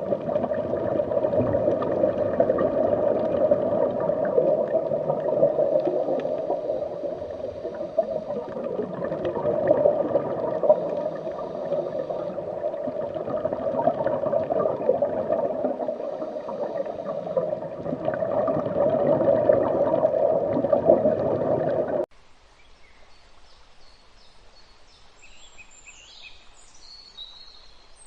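A loud, steady rushing noise with a grainy texture cuts off abruptly about 22 seconds in. Then it is quiet, with a few short, high bird chirps near the end.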